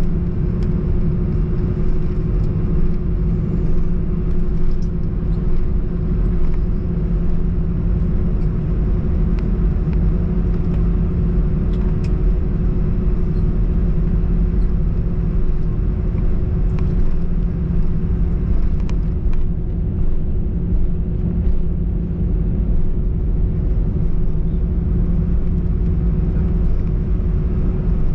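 Steady cabin rumble inside an Airbus A321 airliner, with a constant low hum and no change in pitch or level.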